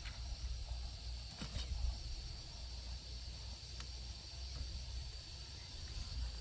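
Insects droning steadily on a high, even pitch over a low rumble, with a few faint clicks or knocks about a second and a half in and near four seconds.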